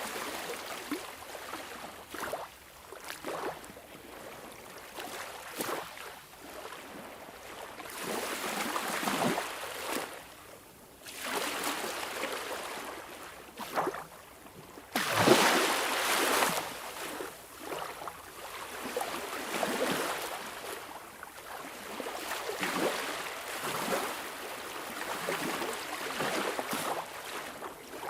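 Sea waves washing and splashing in irregular swells, one coming in suddenly louder about halfway through.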